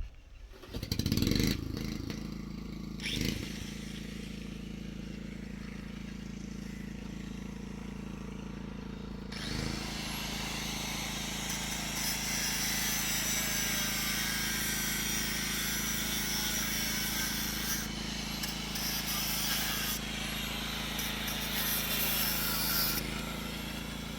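An engine starts about a second in and runs steadily, and about ten seconds in a loud, even hiss joins it.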